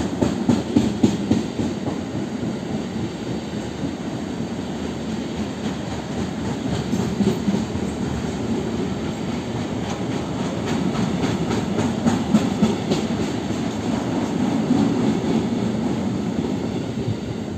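Freight wagons carrying tank containers rolling past, a steady rumble of steel wheels on rail with repeated clicks as the wheels cross rail joints.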